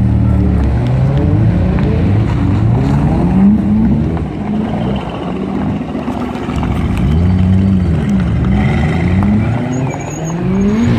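Mercedes C63 AMG V8 being revved repeatedly, its note rising and falling several times. Sharp crackles and pops come from the exhaust between the revs.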